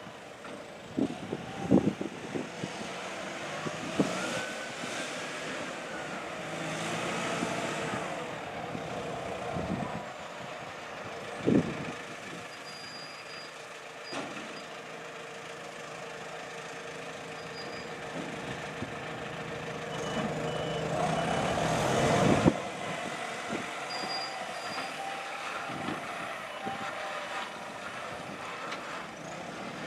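Steady machinery hum of a car ferry arriving in port, with short high electronic beeps and several loud metallic clanks.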